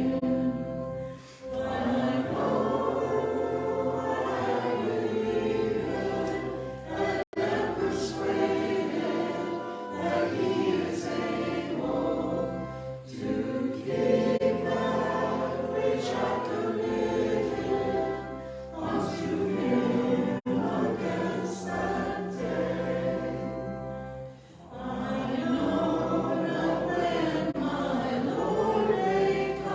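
A group of voices singing a hymn in phrases of about five to six seconds, with short pauses between the lines.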